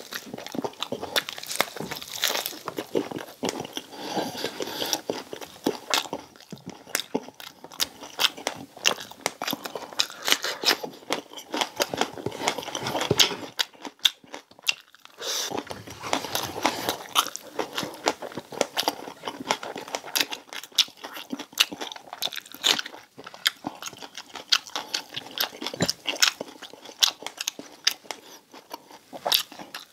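A person biting into and chewing crispy fried pork belly, the crackling skin crunching in many sharp cracks, with a short lull about halfway through.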